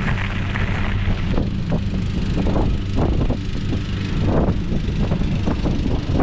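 Riding noise from an electric scooter: wind buffeting the microphone over a steady low rumble of tyres and motor, with irregular knocks and rattles from the road.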